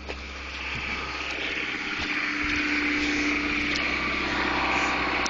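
1994 Honda Accord's four-cylinder engine idling steadily after a cold start at about −3 °C, growing louder over the first couple of seconds and then holding.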